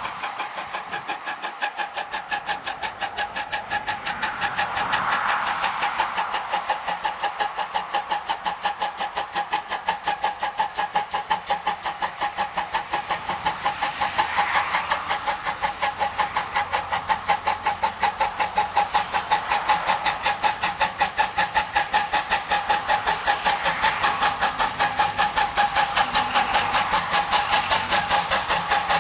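C12 66 steam locomotive working steadily, its exhaust chuffing in an even beat of about four a second with steam hiss.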